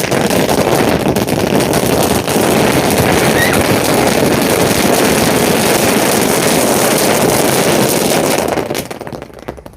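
Ground firework fountain, a novelty 'drums' cracker of the flower-pot (pusvanam) kind, spraying with a steady rushing hiss and dense crackling. It dies away about nine seconds in.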